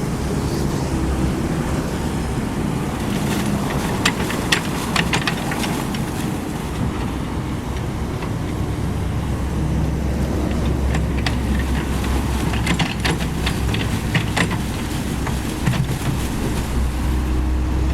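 Komatsu PC78US mini excavator's diesel engine running steadily under work, with bursts of sharp clicks and clanks a few seconds in and again about two-thirds through.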